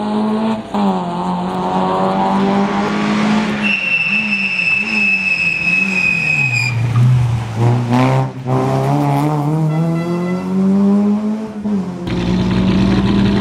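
Rally car engine at full effort, its note rising and falling as the car accelerates and changes gear. A high steady squeal runs for about three seconds in the middle. The sound changes abruptly near the end.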